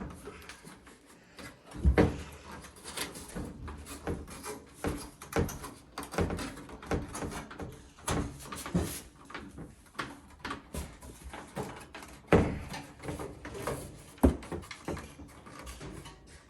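Irregular clunks, knocks and clicks of a GE dryer's metal parts being handled and fitted back into place by hand during a drum bearing and seal repair, with the sharpest knocks about 2 seconds in and near the end.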